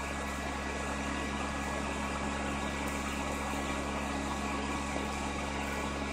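Steady hum and rushing air of the electric blower fan that keeps an inflatable cat inflated, heard from inside the inflatable.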